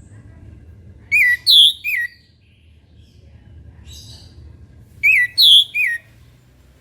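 Orange-headed thrush singing: two loud phrases of three quick whistled notes, about four seconds apart, with a softer note between them.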